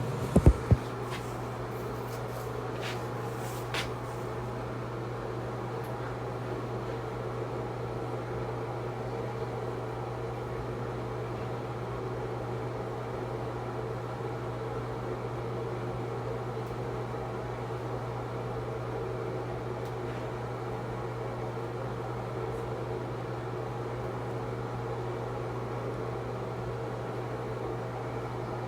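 A steady low mechanical hum, like a fan or appliance, with a few sharp knocks in the first second.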